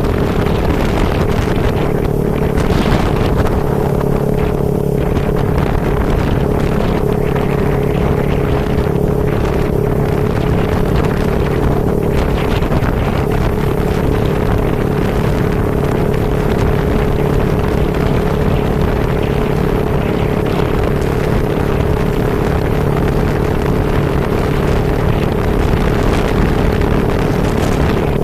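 A vehicle engine running steadily on the move, with a constant hum and wind rushing over the microphone.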